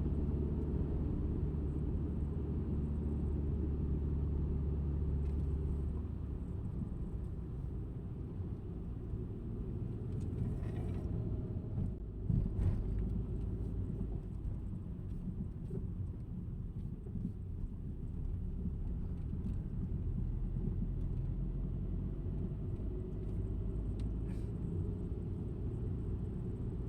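Low, steady road and engine rumble of a moving car heard from inside the cabin. The engine note changes about six seconds in, and there is a short bump about halfway through.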